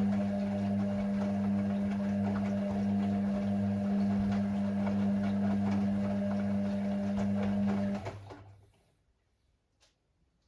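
Hoover Six AI130 washing machine running with a steady hum that dies away about eight seconds in. Near the end there are a couple of faint clicks.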